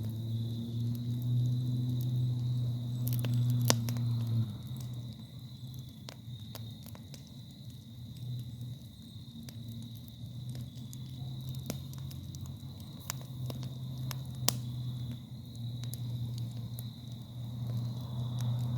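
Campfire crackling, with scattered sharp pops of burning wood. A steady high insect-like whine and a low hum run underneath, the hum strongest in the first few seconds.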